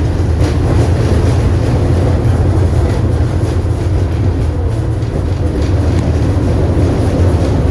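KTM-8KM tram running along the track: a steady low rumble of wheels on rails.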